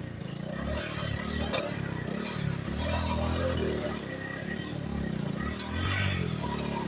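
Motorcycle engine climbing an off-road hill track, its revs rising and falling as the rider works the throttle.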